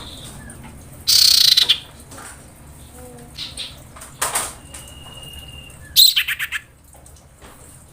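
Female common iora calling: a harsh rasping burst about a second in, then a sharp note, a long thin whistle, and a quick run of about six chattering notes near six seconds. These are calls of a female in breeding condition, calling for a male.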